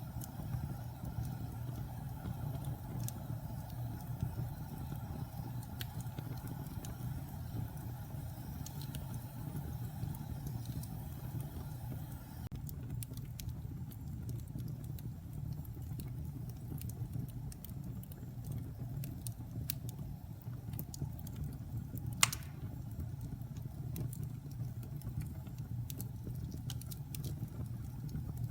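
Fire burning in a fireplace: a steady low rumble with scattered small crackles, and one sharper pop a little over three quarters of the way through.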